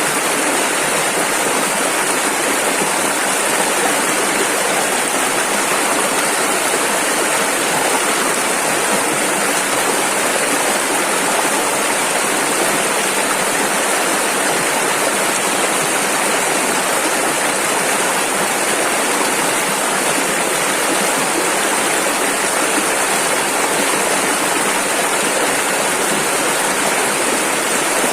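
A rushing river: fast water pouring over rapids, a steady full hiss without changes.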